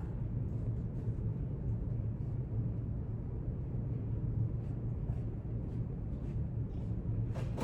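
Library room ambience: a steady low rumble with a few faint small ticks, and one brief sharper sound near the end.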